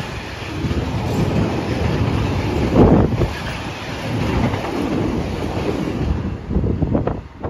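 A train passing through the station: a loud, low rumble of wheels and rushing air, with wind buffeting the microphone. It eases off near the end.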